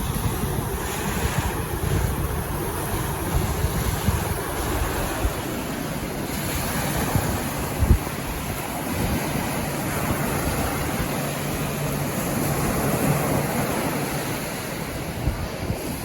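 Small waves washing onto a beach, with wind buffeting the microphone in gusts and a brief thump about eight seconds in.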